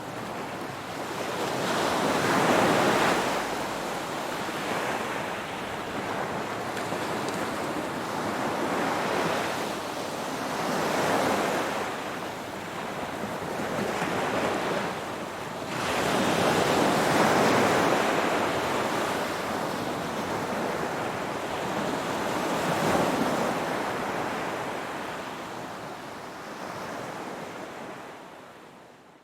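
Ocean surf: waves breaking and washing in with a steady hiss, swelling about four times, then fading away near the end.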